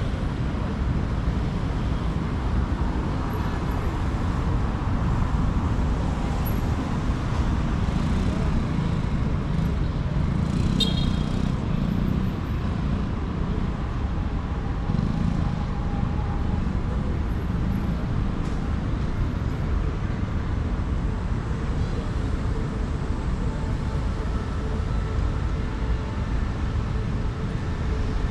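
Steady city street traffic: a continuous low rumble of passing road vehicles, with a brief high-pitched sound about eleven seconds in.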